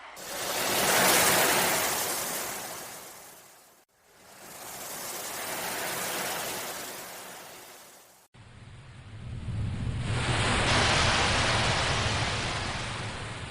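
Ocean waves surging in and drawing back in slow swells, each a few seconds long. About eight seconds in there is an abrupt cut to a deeper wave with a heavier low end.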